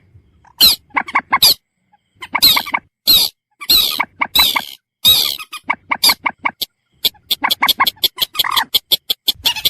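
Common moorhen calls: harsh, squawking bursts in separate clusters, then a quick run of short clucking notes from about seven seconds in.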